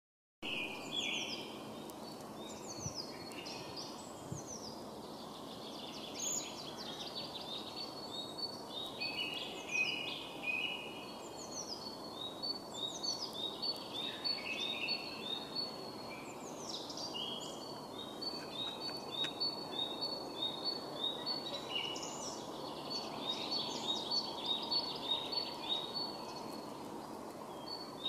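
Several songbirds singing in spring: quick series of high chirps and short falling whistles, overlapping throughout, over a steady low rushing background noise.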